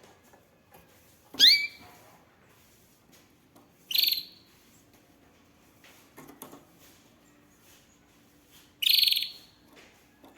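Canary calling: three loud, high chirps a few seconds apart. The first sweeps upward and the last is a longer, rapidly pulsed note.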